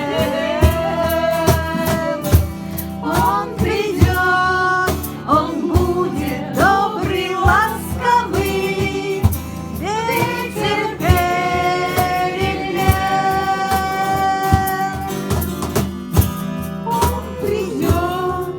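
A song sung by a high voice with instrumental accompaniment and a steady beat of sharp strikes.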